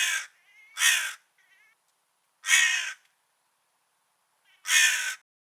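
A crow cawing: four harsh caws, each about half a second long, at uneven gaps, with fainter calls between the first two.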